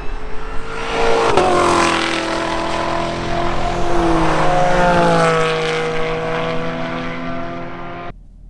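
Chevrolet Camaro SS 1LE's 6.2-litre V8 running hard on a race track, its pitch rising and falling with throttle and gear changes. The sound cuts off abruptly near the end.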